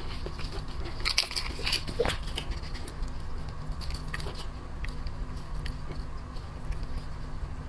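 Close-miked eating sounds: irregular small clicks and cracks of crab shell being broken and chewed, bunched about one to two seconds in, over a steady low hum.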